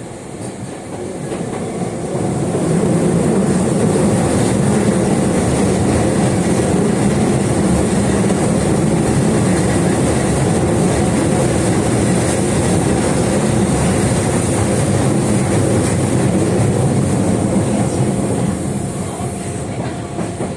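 Osaka Metro 22 series subway train with GTO inverter control, heard from inside the car while running: a steady low rumble of wheels and motors that grows louder about two seconds in, holds, and eases slightly near the end.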